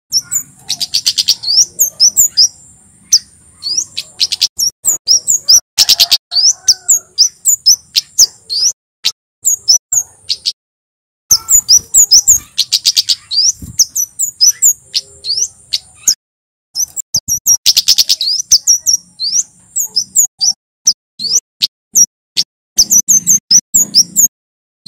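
Male Javan kemade, a flowerpecker, singing loudly: rapid runs of short, sharp, high chirps in phrases broken by brief pauses.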